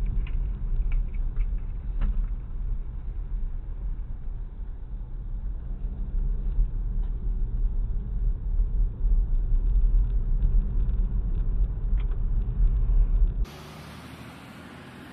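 Car interior rumble of road and engine noise picked up by a dashcam, heavy in the low end with a few light clicks. Near the end it cuts off suddenly and gives way to a quieter, even hiss.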